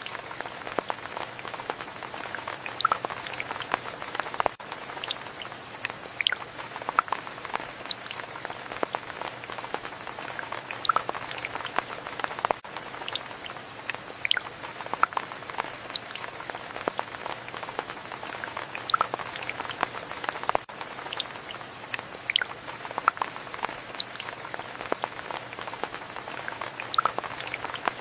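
Steady rain with many close, distinct drops pattering on a surface.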